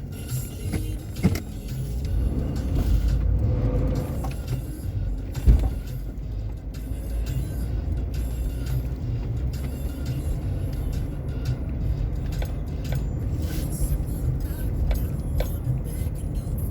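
A car driving with a steady low rumble, scattered knocks and rattles, and one sharper thump about five and a half seconds in.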